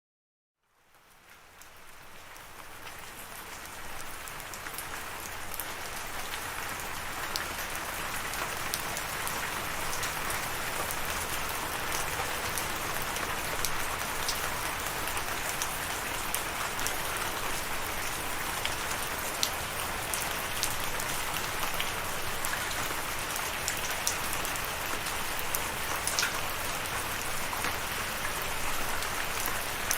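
Steady rain falling on a surface, an even hiss with scattered sharp drop ticks. It swells in from silence over the first few seconds, then holds steady.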